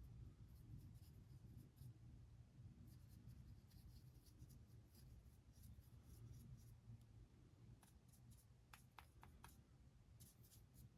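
Near silence: a low room hum with faint small ticks and scratches from a paintbrush working over a 3D-printed model, a few sharper ticks near the end.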